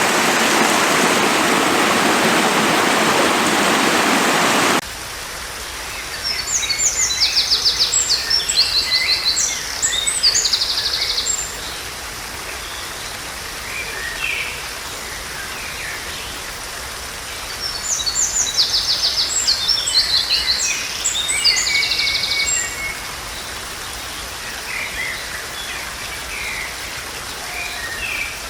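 Rushing stream water that cuts off suddenly about five seconds in. After that a songbird sings two long phrases of fast, high, trilled notes, several seconds apart, over a faint background.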